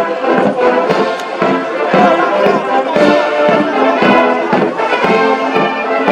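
Military brass band playing a march: brass chords over a steady drum beat of about two strokes a second.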